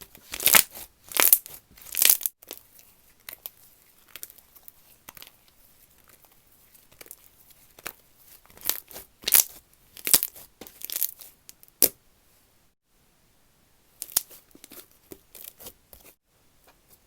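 Slime being stretched, pulled apart and pressed by hand, giving crackly tearing sounds in separate bursts. The loudest bursts come in the first two seconds, another run comes about halfway through and ends in a sharp snap, and softer crackles follow near the end.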